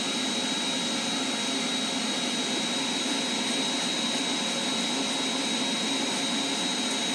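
Shop vac running steadily with a constant high whine, blowing air into the exhaust system to pressurise it for a soapy-water leak test at the exhaust manifold.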